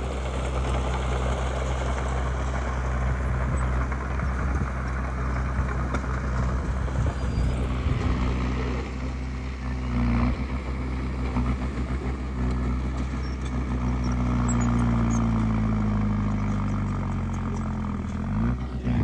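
Heavy diesel engine of earthmoving machinery running steadily under a mixed rumble. Its engine speed shifts in the second half, and near the end the speed drops briefly and then climbs again.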